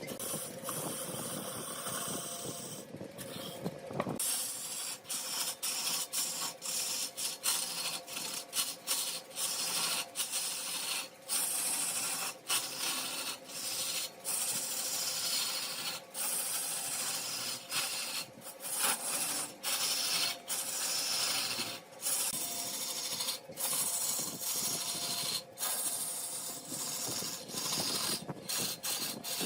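Lathe turning: a cutting tool scraping spinning mahogany, a hissy rasp broken by many short pauses, over the faint steady hum of the lathe. For the first four seconds there is a lower, steadier rumble instead of the broken scraping.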